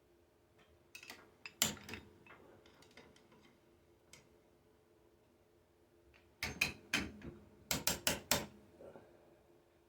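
Ratchet strap being cranked tight, its handle and pawl giving sharp metal clicks: a short burst about a second in, then a run of several quick clicks from about six and a half seconds, over a faint steady hum.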